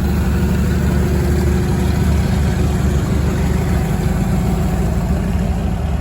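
International Farmall 400 diesel tractor engine running steadily at low speed.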